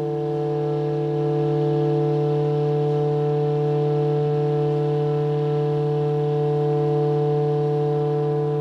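Clarinet and double bass holding one steady, unchanging low chord, a sustained drone of several tones with no change in pitch or loudness.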